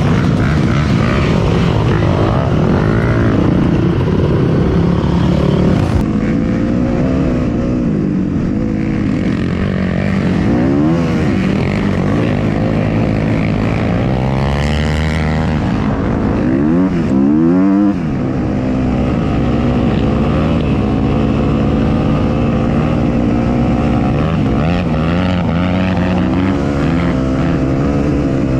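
Dirt bike engine running under load, its pitch rising and falling over and over as the throttle is opened and closed.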